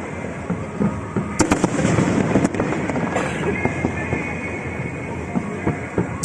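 Fireworks exploding, with a cluster of sharp bangs about a second and a half in and a crackling hiss a little later, over a steady din of bursts and music.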